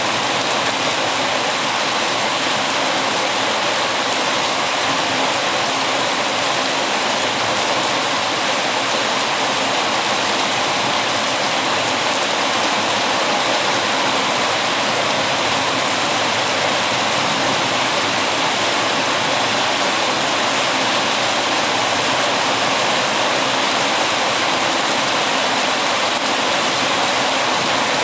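Steady, unbroken heavy rain.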